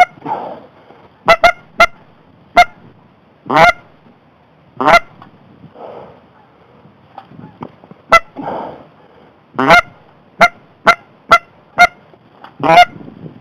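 Goose honks and clucks: about sixteen sharp, loud calls in an irregular run, three of them longer and drawn out.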